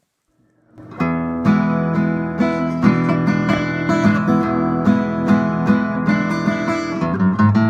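Background music of a strummed acoustic guitar, starting about a second in after a brief silence.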